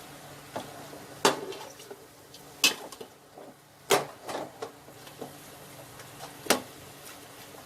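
A cooking utensil knocking and scraping against a pot while chicken pieces are stirred as they sauté, with four sharp knocks spaced a second or more apart and softer scrapes between them.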